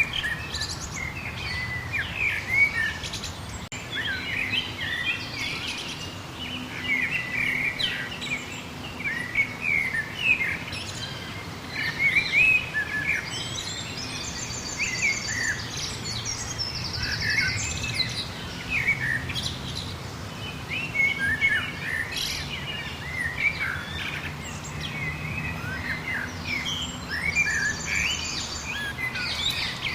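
Many birds chirping and calling at once, with short, quick notes overlapping throughout. A higher, fast-repeating trill stands out a few times, around the middle and again near the end. A faint, steady low rumble runs underneath.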